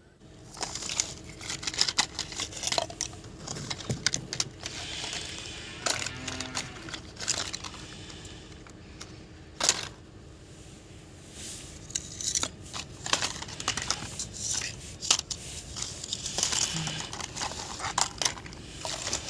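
Plastic toy vehicles being handled: irregular clicks, clatters and crinkling.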